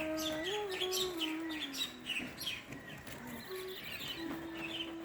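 Small birds chirping rapidly, over and over, above a soft held tone that slides down and fades about two seconds in and comes back steady near the end.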